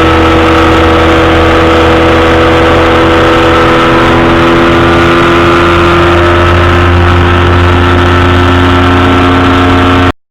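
Powered parachute engine and propeller running loudly and steadily, its pitch drifting slightly, cutting off abruptly near the end.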